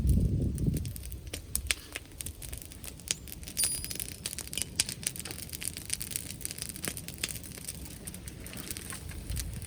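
Wood bonfire crackling, with many small irregular pops and snaps. A low wind rumble dies away in the first second.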